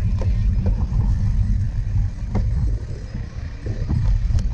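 Wind rumble on a bike-mounted or rider-worn camera during a cyclocross race, with a few sharp knocks and rattles from the bike over rough ground.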